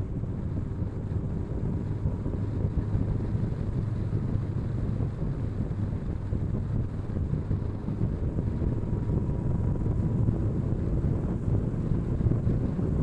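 Wind rushing and buffeting over an action camera's microphone on a moving motorcycle, with the bike's engine running under the noise. The sound is a steady, heavy low rush with no let-up.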